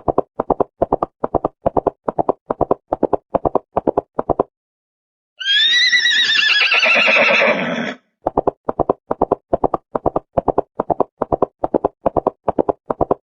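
Horse hooves clip-clopping at about four beats a second, then a horse whinnying once in a long wavering call about five seconds in, then the hoofbeats again.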